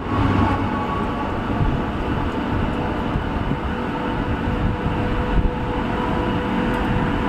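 Kanchanjunga Express train running: a steady, even rumble of the train in motion, with a faint steady tone above it.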